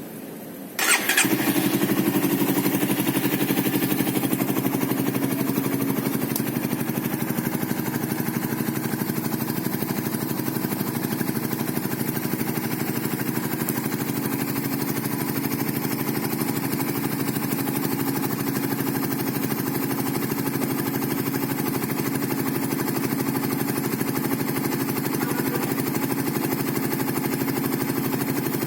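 Suzuki Satria F150 fuel-injected 150 cc single-cylinder engine breathing through an aftermarket WRX GP5 racing exhaust. It is started about a second in and then idles steadily.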